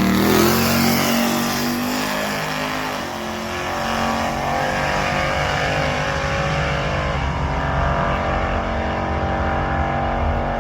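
Boosted drag-racing car engine under hard acceleration on a pass. Its pitch climbs over the first couple of seconds, the level dips briefly about three seconds in, and then it climbs again.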